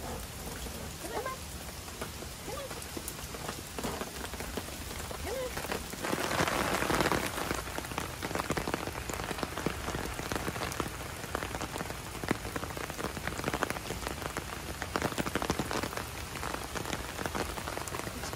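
Steady hurricane rain falling on wet pavement and grass, a dense hiss of countless drop hits that grows heavier about six seconds in.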